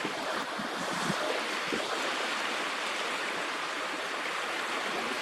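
Steady hiss of sea water washing and lapping at the shoreline.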